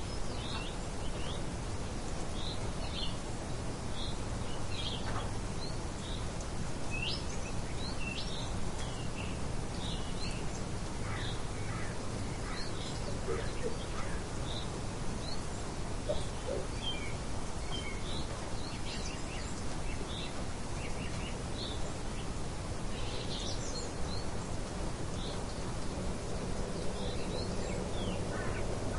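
Steady light wind with many small birds chirping, short calls scattered throughout.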